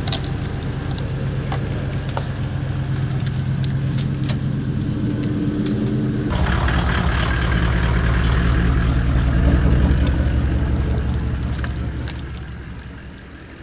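4WD vehicle engine running steadily. About six seconds in it turns louder and deeper, then fades out near the end.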